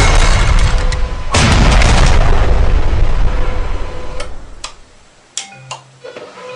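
Two loud explosion-like booms about a second and a half apart, each dying away over a second or two, followed by a few sharp clicks.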